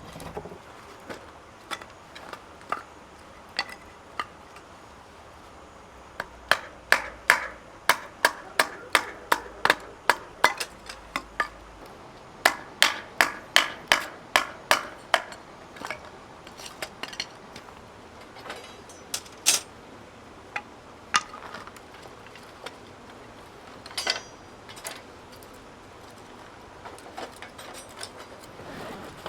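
A series of sharp knocks from something being struck: a few spaced out at first, then two quick runs of about three knocks a second, then scattered single knocks.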